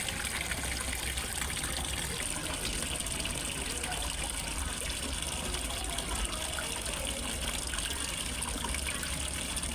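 Water falling into a fish pond: a steady rush and trickle of splashing water over a low, even rumble.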